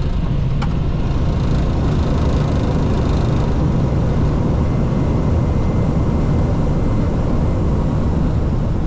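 Airbus A320's engines running in maximum reverse thrust with the rush of the landing rollout, a loud, steady noise heard from inside the cockpit. Maximum reverse rather than idle reverse is used because the short runway is wet.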